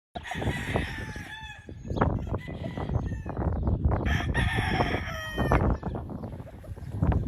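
Several gamecocks crowing, their calls overlapping one after another, over a steady low rumble.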